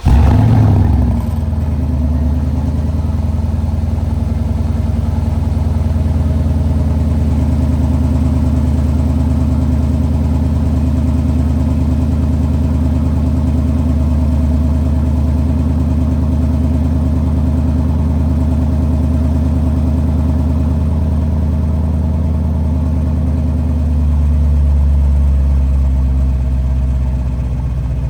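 2014 Porsche Cayenne Turbo S twin-turbo V8 on a cold start: a brief flare in revs right after it fires, falling back within a second or two to a steady fast cold idle. Near the end the idle note shifts and then settles a little quieter.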